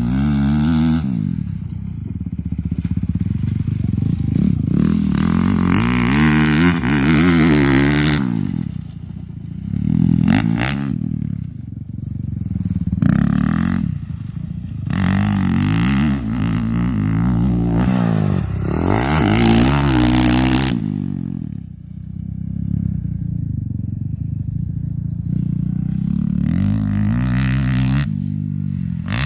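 Motocross dirt bike engine revving up and down again and again, its pitch rising and falling every couple of seconds, with spells of loud rushing noise at times.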